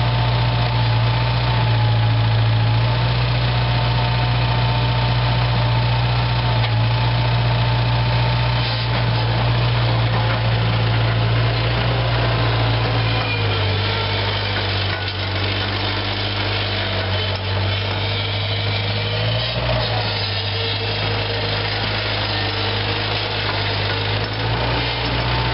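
Bobcat Clark 743 skid steer's four-cylinder diesel engine running steadily, around idle. Its note drops slightly about halfway through and rises again near the end.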